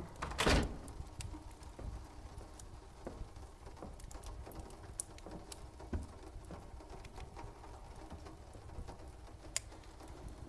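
Night-time ambience of rain and a crackling fire: a soft steady patter and low rumble with scattered sharp crackles. About half a second in comes one loud, short, breathy burst of noise.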